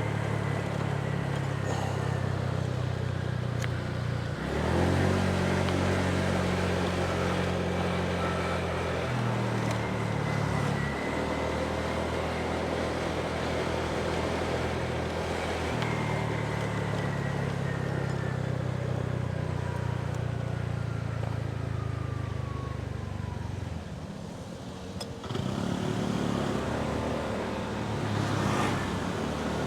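Motorbike engine running while riding, its note jumping up and down in steps several times, with a brief drop in level about 24 seconds in.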